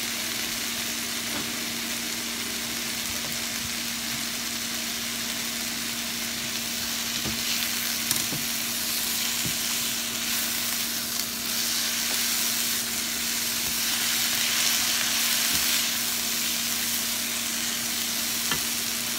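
Sliced zucchini, yellow squash and peppers sizzling in a nonstick frying pan as they are stirred and tossed with a silicone spatula: a steady hiss that grows a little louder in the middle, with a few faint scrapes of the spatula.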